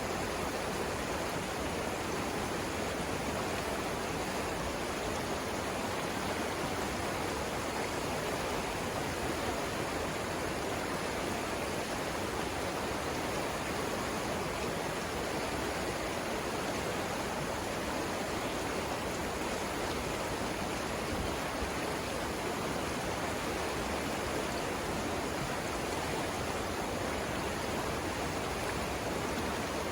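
Savannah River flowing: a steady, even rush of water that does not change.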